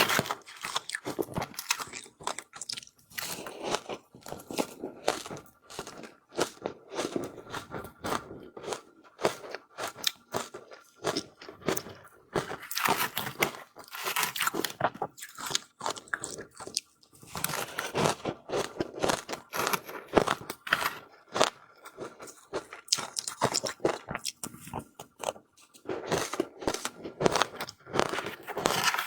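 Close-miked crunching and chewing of powdery ice: quick crackling crunches come in clusters of a few seconds each, with short pauses between bites.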